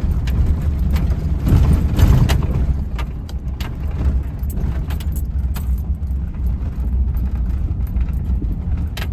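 Car driving slowly on a rough road, heard from inside the cabin: a steady low rumble of engine and tyres with frequent small clicks and rattles, swelling louder for about a second near the start.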